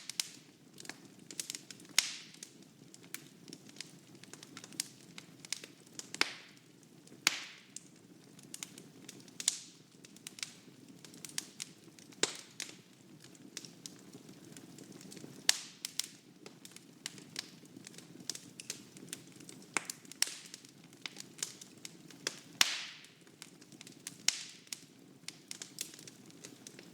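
Wood fire burning in a fireplace: irregular sharp crackles and pops, a few louder snaps, over a steady low rush of flame.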